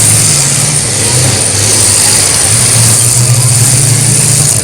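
Several demolition derby cars' engines running and revving, their low drone rising and falling in pitch over a constant wash of noise.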